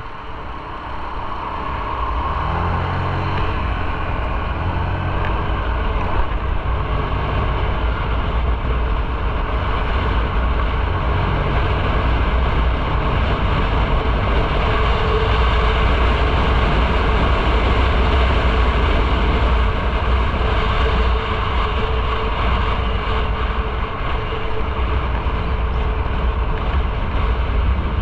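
Motorcycle engine running under way with heavy wind rumble on the microphone, getting louder about two seconds in as the bike picks up speed.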